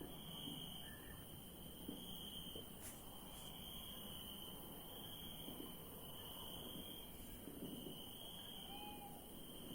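Crickets chirping at night: a high trill that runs in pulses about a second long with short gaps. A faint short call is heard near the end.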